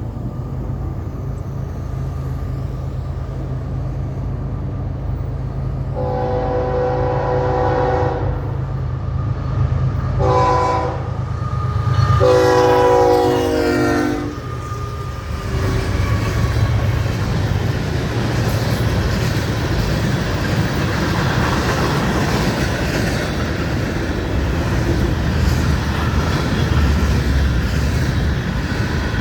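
Diesel freight locomotive's air horn sounding for the crossing over the engine's low rumble: a long blast, a short one, then a final long blast that drops in pitch as the locomotive passes. The freight cars then roll by with steady wheel-on-rail noise.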